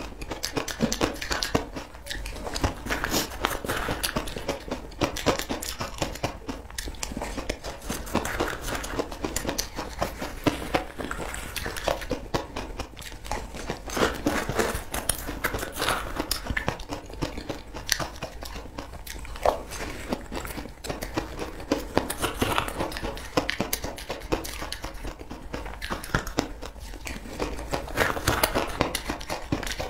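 Close-up crunching and chewing of a crumbly food, mixed with a metal spoon scraping and digging through it in a plastic bowl: many small crackles and crunches, one after another.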